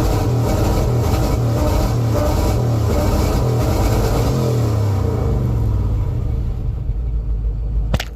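Car engine revving, the revs sliding back down about halfway through and the engine settling quieter near the end, with a sharp click just before it ends.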